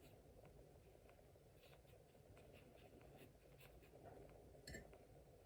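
Near silence with faint, soft taps of a watercolour brush touching a postcard, and one slightly louder tick near the end.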